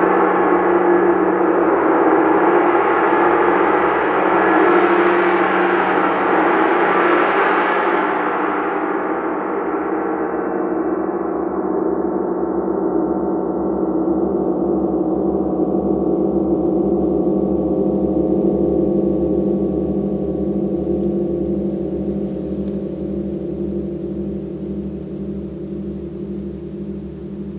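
A gong ringing with a dense wash of overtones. The bright upper shimmer swells over the first several seconds, then fades away after about eight seconds, leaving the low tones humming on with a regular wavering beat of about two pulses a second as the ring slowly dies down.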